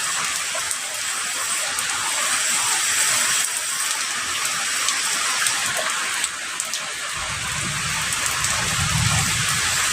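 Heavy rain falling steadily with a dense, even hiss. About seven seconds in, a low rumble of distant thunder rises under it and swells near the end.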